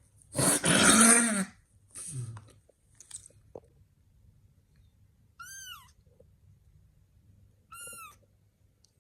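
Kitten mewing: two short, high-pitched mews that rise and fall, about five and eight seconds in. Near the start comes a louder, rough, noisy burst of about a second, and a smaller one just after.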